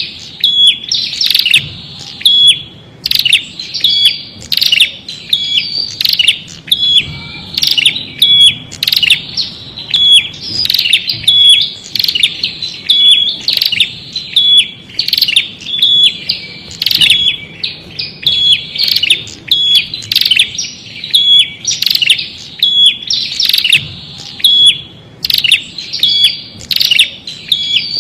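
A prinia (Indonesian prenjak) calling on and on: loud, high chirps repeated several times a second in a quick, steady series.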